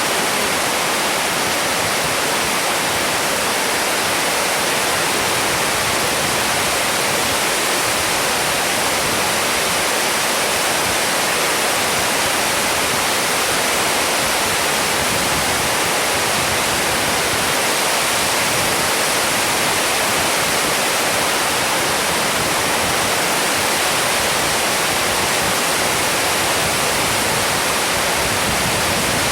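Heavy rain falling in a steady, even downpour, with no single drops or thunderclaps standing out.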